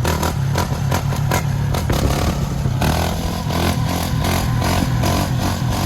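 Dirt bike engine running under way on the road, with a rapid, irregular clatter over it.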